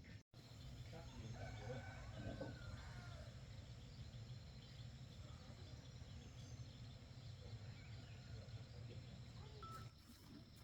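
Faint outdoor ambience: a steady low rumble with a few faint bird chirps about one to three seconds in.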